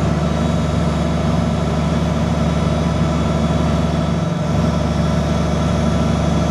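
Heavy diesel engine of harvest machinery running steadily at an even, low pitch, with a brief dip in the lowest hum about four seconds in.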